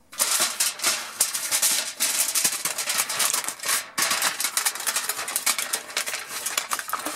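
Aluminum foil crinkling and rustling in a dense crackle as it is handled and folded into a shallow tray, with a brief pause about four seconds in.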